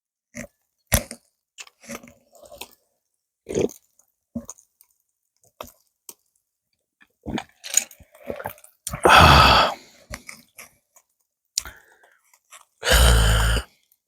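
A person eating and drinking up close: scattered small clicks and chewing, with two loud, breathy, longer sounds, one about nine seconds in and a lower, voiced one near the end.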